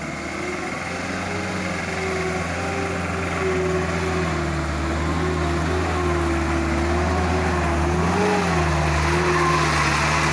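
Engine of a laden truck, carrying about 8 tons, running steadily under load. Its pitch wavers slightly and it grows gradually louder.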